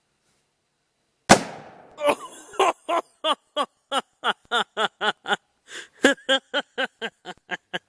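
A plastic bottle of baking soda and vinegar bursts with one loud bang about a second in, then a person laughs in a long run of quick, even 'ha-ha' pulses.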